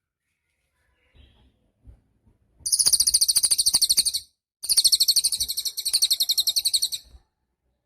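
Cililin songbird singing two long, fast, high-pitched trills in quick succession, each a rapid run of repeated notes lasting about two seconds, after a few faint soft notes.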